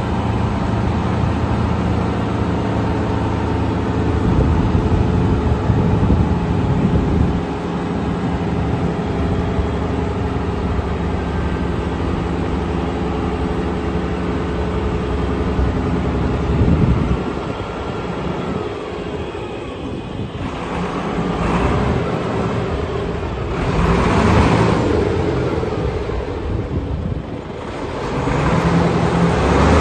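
Diesel engine of a Volvo BM 6x6 articulated dump truck running, with a steady note through the first half. About halfway through the sound turns rougher and less even, swelling in level twice toward the end.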